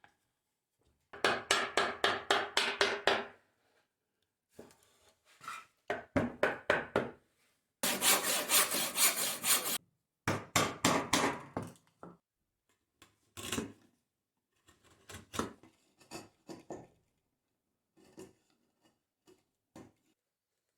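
Hand saw cutting wood in short, fast strokes, about five a second, in several bursts with brief pauses between them; the strokes grow fainter and sparser near the end.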